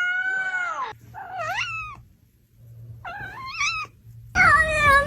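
A cat meowing four times in drawn-out, wavering meows. The last meow, starting near the end, is the loudest.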